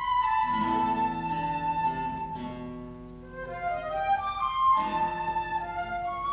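Flute and classical guitar playing together: the flute holds long melodic notes while the guitar plucks low chords that come in about half a second in and again near five seconds.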